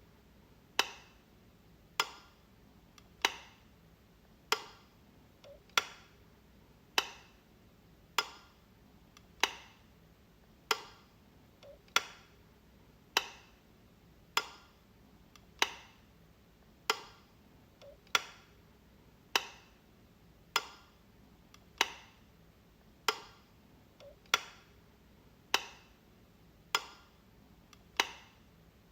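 Light switch being flipped, one sharp click about every 1.2 seconds in an even rhythm, each with a short ring-off.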